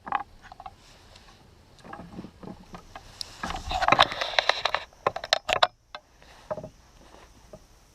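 A canoe being paddled and handled: scattered knocks against the hull, a louder swishing stretch about three and a half seconds in, and a quick run of sharp clicks a little after five seconds.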